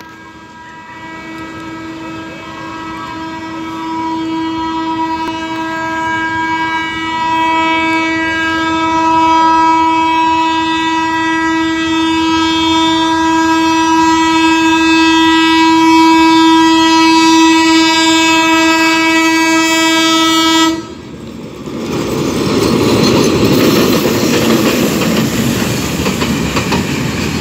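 A freight train's locomotive horn sounds one long, unbroken blast that grows steadily louder as the train approaches, then cuts off suddenly about 21 seconds in. The rumble and clatter of the container flatcars rolling across the level crossing follows.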